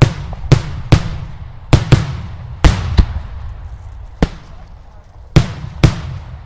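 Daylight fireworks: a rapid, irregular series of very loud aerial bangs, about ten in all, each with a short echoing tail, with a brief lull in the middle.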